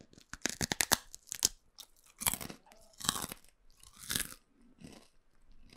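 A person biting and chewing a crunchy snack right up against a BM-800 condenser microphone, ASMR-style: a quick run of crisp crunches in the first second and a half, then slower chewing crunches about once a second.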